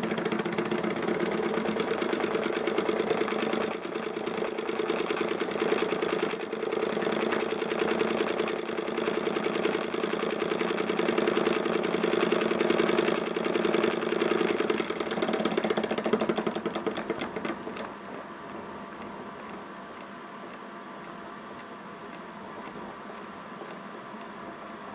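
Ernst Plank Cosmo vertical toy steam engine running fast on its own steam, a rapid, even mechanical clatter of the piston and flywheel. About 18 seconds in the sound drops to a much quieter steady level.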